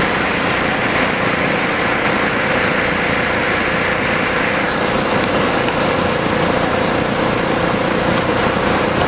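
A bus engine running steadily close by. About halfway through, a higher hiss drops away and a steady mid-pitched whine comes in.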